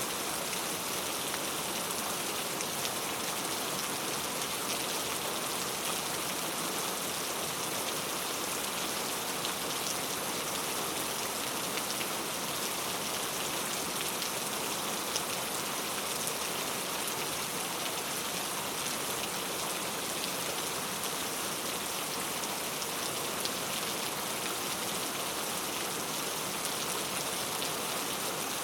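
Steady rain falling, an even hiss of many small drops with scattered faint ticks of individual drops.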